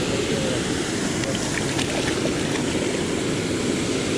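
Waterfall rushing in a steady low roar, with a few faint clicks near the middle.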